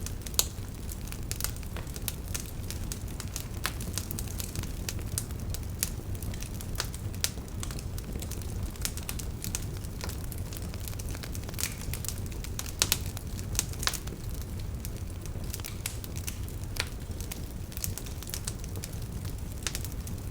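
Wood fire burning, with frequent irregular crackles and pops over a steady low rumble of the flames.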